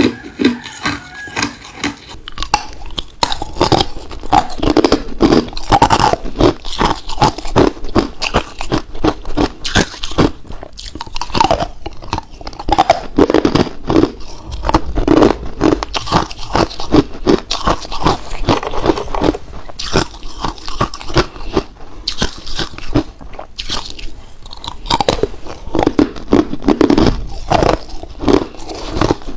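A person biting and chewing ice cubes close to the microphone: a rapid, continuous run of loud, sharp crunches and cracks.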